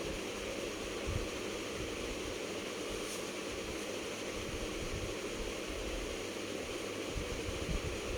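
Steady rushing background noise, like a running fan, with a couple of soft low bumps about a second in and near the end.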